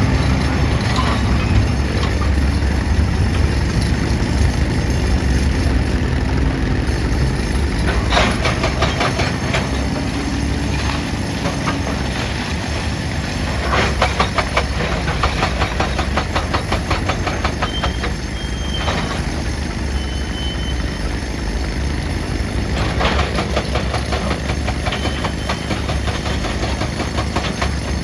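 Heavy excavator's diesel engine running steadily under load. Three stretches of rapid metallic clatter come over it: at about eight seconds, fourteen seconds and twenty-three seconds in.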